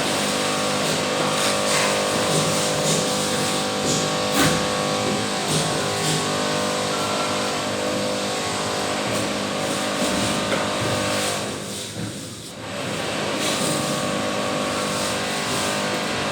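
A machine running steadily, a hum of several steady tones over a hiss, briefly dropping in level about twelve seconds in.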